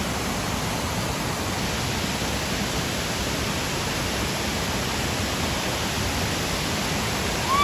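Steady rush of fast-flowing water from the Dudhsagar waterfall and its pool, an even, unbroken wash of noise.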